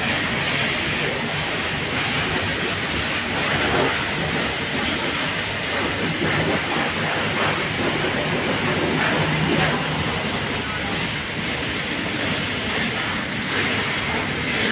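Car wash pressure washer spraying water onto a car, a loud, steady hiss.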